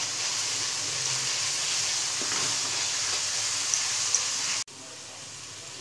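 Minced mutton and onions sizzling in hot oil in a pan as a spatula stirs them. The steady sizzle drops suddenly to a quieter sizzle near the end.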